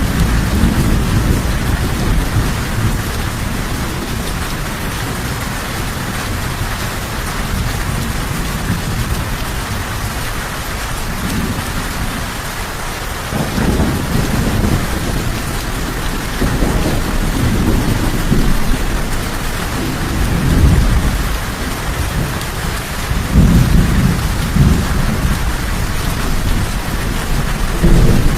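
Steady rain with low, rolling thunder rumbling again and again, the rumbles swelling from about halfway through and again near the end.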